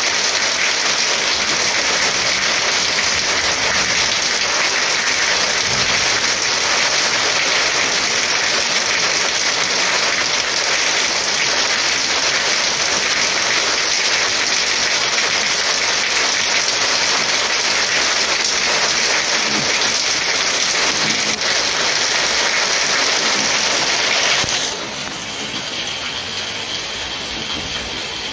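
Heavy rain falling as a dense, steady hiss. About 24 seconds in it drops suddenly to a quieter downpour.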